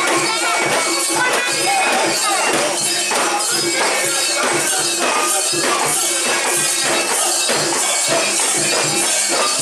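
Lively festival din around a mikoshi procession: many voices chanting in a steady rhythm over a continuous metallic jingling and shaking.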